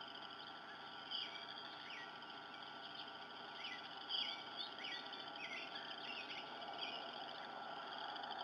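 Short, high bird chirps, a dozen or so scattered through the middle of the clip, over a steady high pulsing trill of a background chorus and a faint steady hum.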